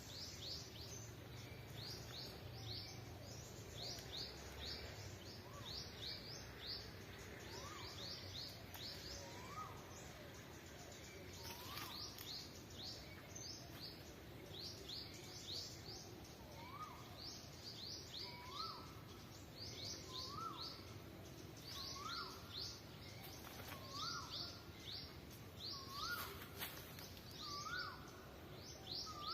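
Birds chirping: a dense run of short, high chirps that slide down in pitch. From about a quarter of the way in, a lower call that rises and then holds is repeated roughly once a second. A faint steady outdoor hum lies beneath, with a few light clicks.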